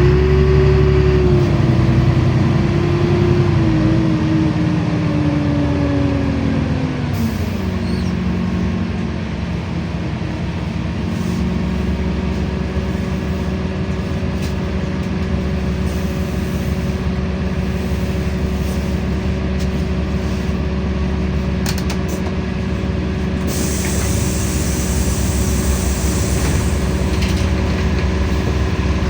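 LiAZ-5292 city bus heard from inside, its engine and drivetrain whining. The whine rises and then slides down over the first several seconds as the bus slows, after which the engine runs on steadily.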